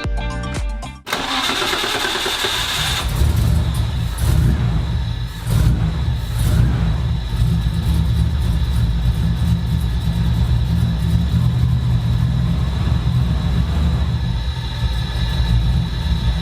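Background music for about a second, then a Nissan Skyline's RB30 straight-six cranks for a couple of seconds, is slow to catch, then fires. It takes a few quick blips of the throttle and settles into a steady idle on fresh oil.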